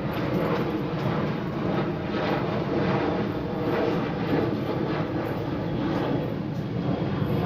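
Boeing 737-800 jet airliner's CFM56-7B turbofan engines at departure thrust: a steady, loud jet noise that swells and fades slightly.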